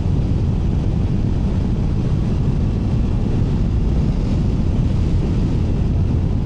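Steady wind rush over the microphone while a Triumph Tiger 900 Rally Pro motorcycle is ridden at road speed, with the bike's running underneath.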